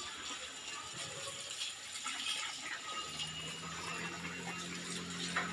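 Water running steadily while a motorcycle is washed, with a low steady hum joining about halfway through.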